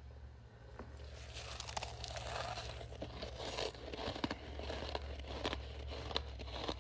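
Freezer frost crunching and crackling close to the microphone, starting about a second in, with frequent sharp cracks.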